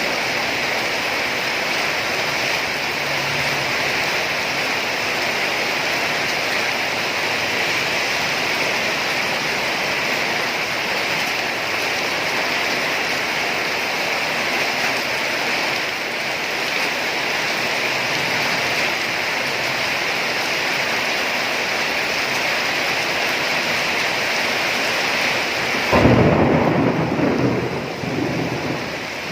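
Steady rain falling, then a sudden loud clap of thunder near the end that rumbles away over a few seconds.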